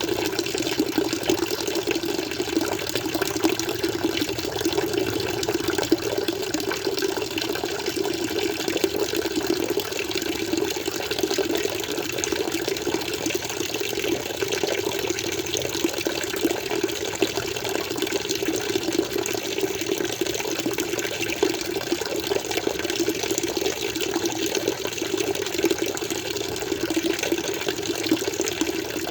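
Aquarium water flowing and splashing steadily, an even, unbroken rush with no changes.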